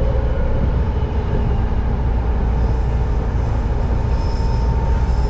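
Passenger train running, heard from inside the car: a steady low rumble with a thin steady whine, and a faint high whine coming in near the end.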